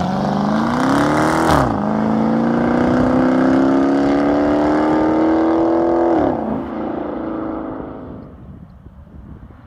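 Dodge muscle car's exhaust under hard acceleration. The engine note climbs, drops at a shift about a second and a half in, then climbs steadily again. Near six seconds it drops once more and fades away as the car drives off.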